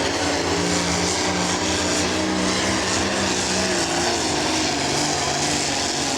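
Pro stock pulling tractor's turbocharged diesel engine running hard at high revs under load, with a loud high hiss over the engine note. The pitch drops a little about two-thirds of the way in.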